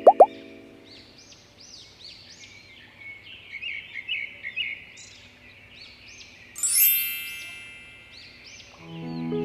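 Small birds chirping in quick, short high calls, with a bright ringing chime about six and a half seconds in that fades away. Music starts near the end.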